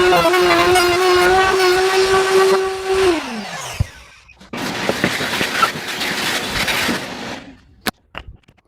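Electric wood router running at a steady high speed, then switched off about three seconds in, its pitch falling as the motor winds down. A rough hiss follows for a few seconds, then a sharp click near the end.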